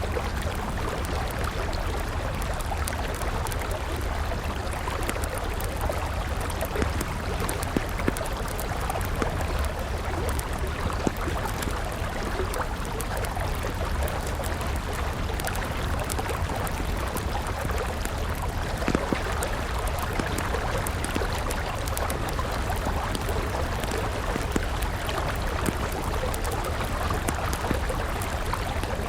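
A river flowing steadily, with a wood campfire crackling over it: many small, irregular pops scattered throughout.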